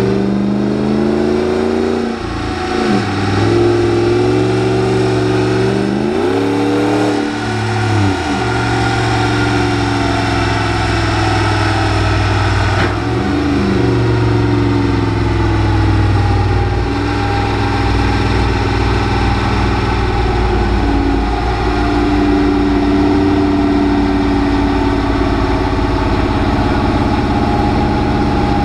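Turbo-diesel pickup engine under load on a chassis dyno, revving up through the gears. Its note climbs and drops back at each shift several times, then holds steady near the end.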